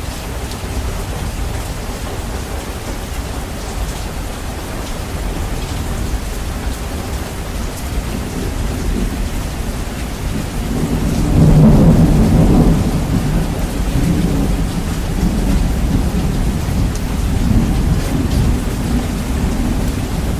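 Steady rainfall with a heavy, bass-boosted low end. A roll of thunder swells about halfway through and rumbles on as it fades.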